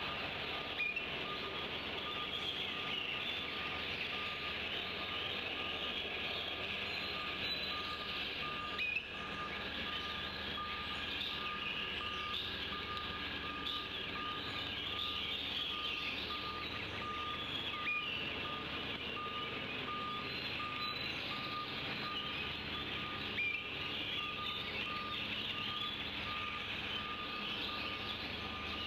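Steady rain hiss, with a reversing alarm beeping faintly and evenly through most of it and a few soft knocks.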